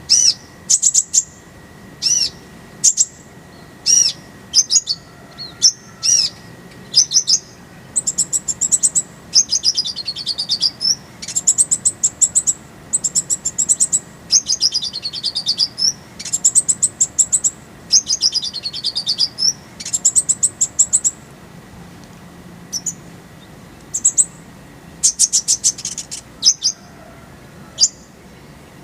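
Olive-backed sunbird (kolibri ninja) singing: sharp, high chirps in quick series and fast, buzzy trills, several of which sweep down in pitch, with a short pause about two-thirds of the way through. A faint, steady high hum runs underneath.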